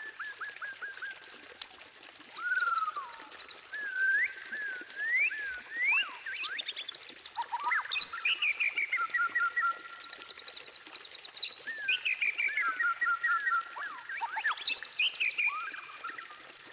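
White-rumped shama (murai batu) singing a varied song, phrase after phrase: clear rising and falling whistles mixed with fast high trills and runs of rapid repeated notes.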